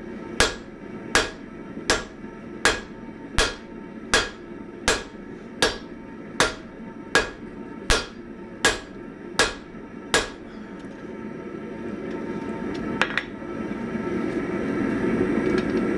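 Hammer blows on hot 1045 steel over an anvil, struck in a steady rhythm of about four blows every three seconds for some ten seconds, each with a short ring. One more blow follows a few seconds later while a steady rushing noise swells near the end.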